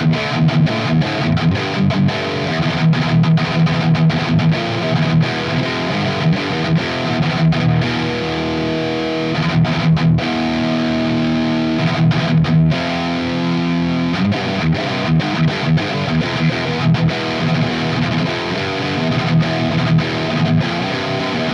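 Distorted electric guitar played through an Earthquaker Devices Plumes overdrive with its gain turned up a little, boosting a high-gain tube amp into a close-miked Vintage 30 speaker cab. It plays chugging riffs with many short stops and a few held chords near the middle.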